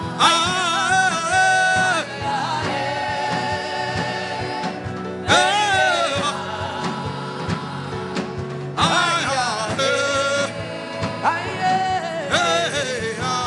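Gospel worship singing: a voice sings long, drawn-out melodic phrases with wavering, sliding held notes over steady sustained instrumental accompaniment.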